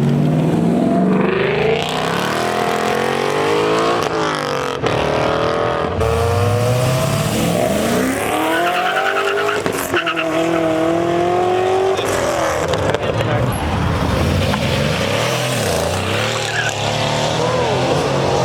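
Car engines revving hard over and over, the pitch climbing and dropping repeatedly, with one rev held high for a couple of seconds near the middle.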